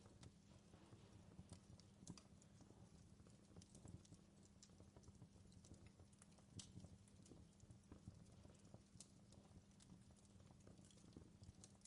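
Campfire crackling faintly, with irregular sharp pops and snaps over a steady low hum.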